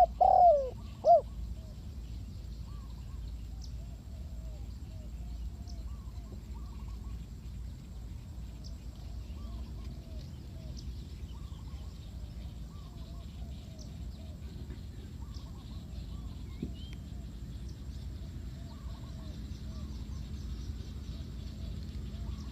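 Spotted dove cooing: a loud phrase of a few falling coos in the first second, followed by fainter, repeated coos from other doves over a steady low background rumble.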